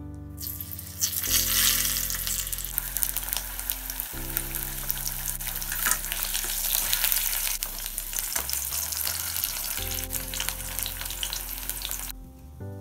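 Potato pieces sizzling in hot oil in a metal kadai, turned now and then with a wooden spatula. The sizzle is loud and steady, and stops shortly before the end.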